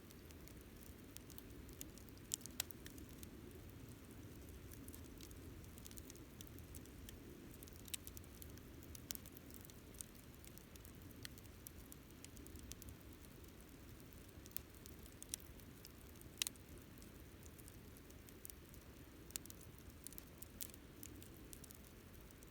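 Wood campfire burning faintly, with scattered sharp crackles and pops at irregular intervals over a low steady rumble.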